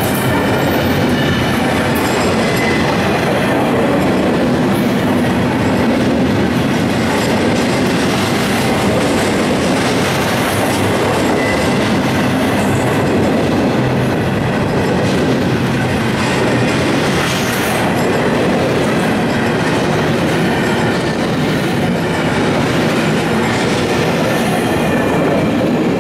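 Empty intermodal well cars of a Florida East Coast Railway freight train rolling past: steady rumble of steel wheels on rail with clickety-clack over the rail joints and a faint high wheel squeal.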